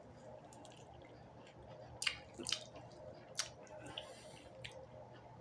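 A person chewing juicy orange segments with wet mouth and lip-smacking sounds: a few short sharp clicks from about two seconds in, over a low steady hum.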